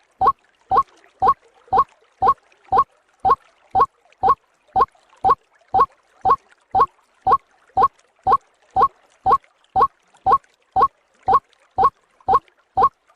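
White-breasted waterhen (ruak-ruak) lure call: short croaking notes repeated at an even pace of about two a second, played as a bird-trapping lure recording.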